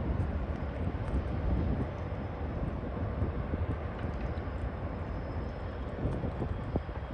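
TasRail diesel locomotives hauling a freight train, a steady low rumble with wind buffeting the microphone.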